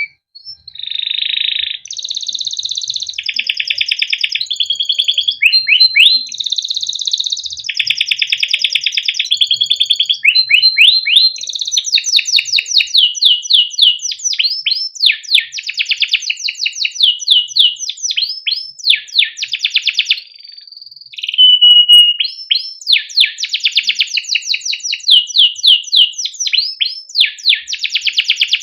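Male canary singing a long continuous song: rapid rolling trills alternating with runs of quick, sweeping 'cuit cuit' chirps, with brief pauses.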